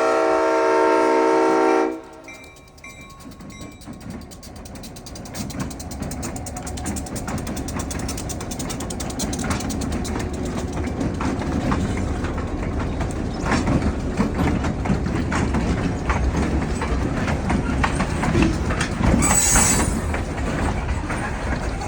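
Youngstown & Southeastern train horn sounding a chord that cuts off about two seconds in. Then the train rolls past with a rumble and a clickety-clack of wheels over the rail joints that grows louder. A brief high squeal comes near the end.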